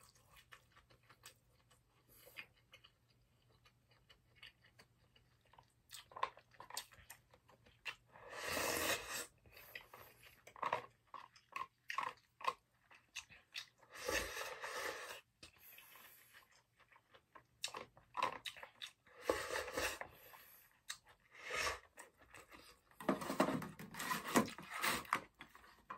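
Close-up eating sounds: chewing and mouth noises in several irregular bouts, with scattered light clicks of chopsticks against a plastic lunchbox tray between them.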